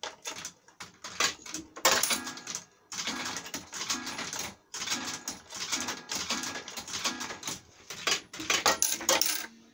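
Reel Crazy fruit machine in play: a mechanical clatter of clicks and rattles, with short electronic tones repeating about twice a second.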